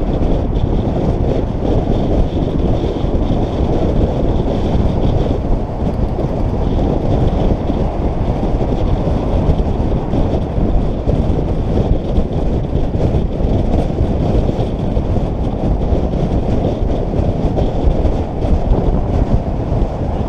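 Wind buffeting the microphone of a camera riding along on a moving bicycle, a steady, loud noise mixed with tyre and road noise.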